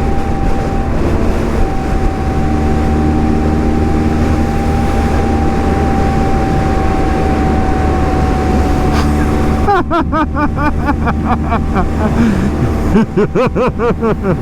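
A motorcycle engine runs steadily at cruising speed, a low rumble with a held, even tone. About ten seconds in, a person's voice is heard over it.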